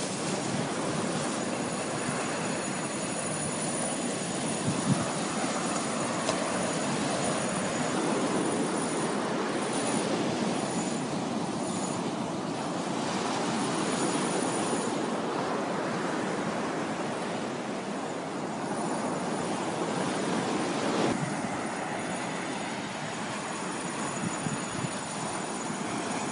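Steady rush of surf breaking on the beach, with wind buffeting the microphone.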